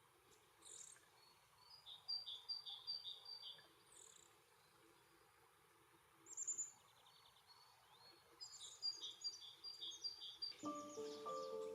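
Faint wild songbirds singing and calling: a short two-note phrase repeated several times in a row, twice, with a few single high chirps in between. Music comes in near the end.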